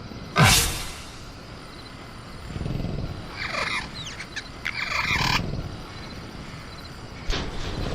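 Sound-effect velociraptor calling: a sudden loud burst just under half a second in, then a string of screeching calls with gliding pitch from about two and a half to five and a half seconds, and a shorter burst near the end.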